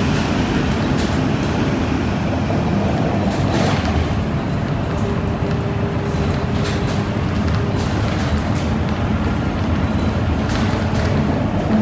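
Scania K230UB Euro 4 bus running: a steady low diesel engine and road drone with occasional knocks, and a steady whine from about five to eight seconds in.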